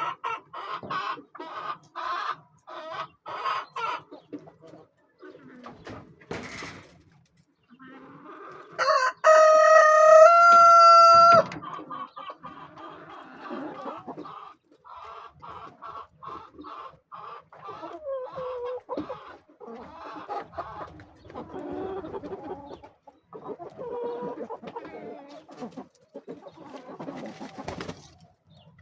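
Chickens clucking in runs of short calls, with a rooster crowing once, loudly, about nine seconds in for roughly two and a half seconds, its pitch stepping up partway through.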